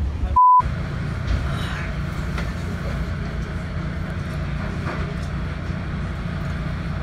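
A short, loud high beep like an edited-in censor bleep about half a second in, then a steady low rumble of a train running.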